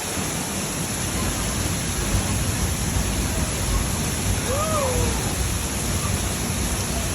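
Waterfall pouring steadily, a loud even rush of water. About halfway through, a short call rises and falls above it.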